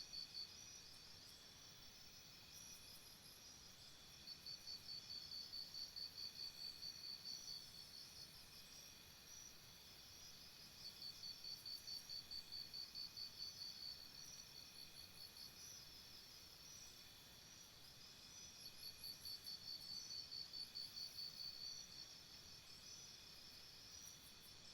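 Faint insect chirping: three trains of rapid, high-pitched pulses, each lasting about three seconds with pauses of several seconds between them, over a faint steady high hum.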